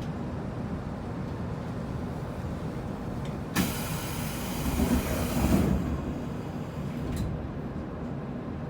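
Interior of a JR Kyushu 811 series electric train: a steady low hum, then about three and a half seconds in a loud hiss of compressed air lasting about two seconds, followed by a single sharp click.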